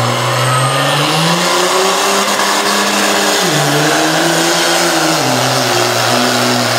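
Cummins turbo-diesel engine of a Dodge Ram pickup under load, its pitch climbing about a second in, dipping sharply midway, then settling lower near the end.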